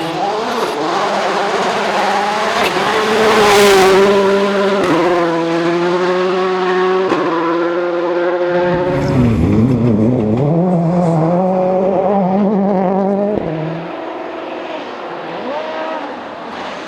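Rally car engines revving hard at full throttle, the pitch rising and falling with gear changes and lifts, in several short shots cut together. A brief loud burst of noise comes about three and a half seconds in.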